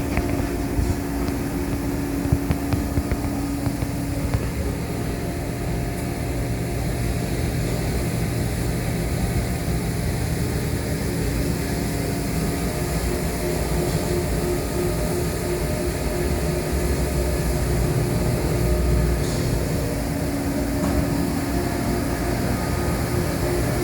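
Steady drone of shop machinery with a few held tones over a low rumble, with a few light knocks in the first seconds.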